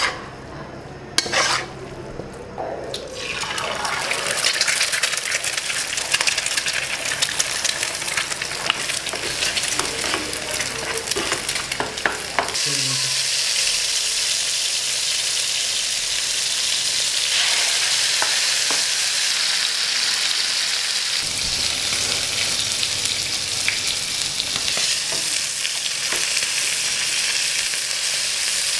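Hakka noodles with prawns and chicken stirred and tossed in a hot wok, the spatula clicking and scraping, with the sizzle building. About twelve seconds in, this gives way to chicken leg pieces frying in shallow oil in a frying pan: a steady, strong sizzle.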